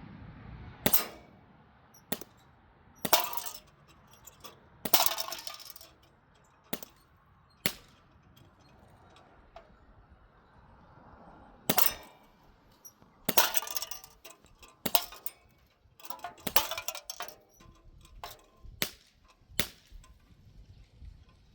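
A CO2 BB gun being fired and shaken: about fifteen sharp, irregularly spaced pops and metallic clinks, some trailing off in a short rattle.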